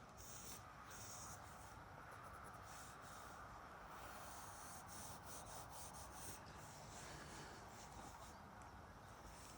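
Faint scratching of a pen on paper in short, quick sketching strokes, over a quiet steady outdoor background.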